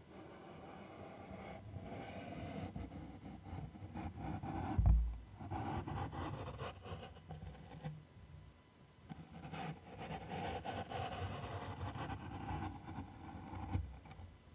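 Close-miked ASMR scratching and tracing over a surface: long, slow strokes of rough rubbing that swell and fade. A dull low thump comes about five seconds in, with a smaller one near the end.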